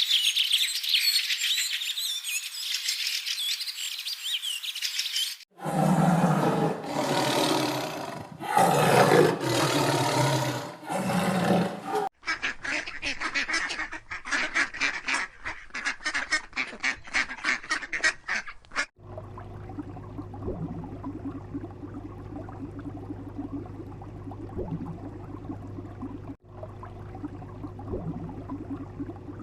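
A run of separate animal-sound clips: high bird chirping for about five seconds, then several loud calls, then fast rhythmic clicking, then a steady low hum with faint sounds over it for the last ten seconds.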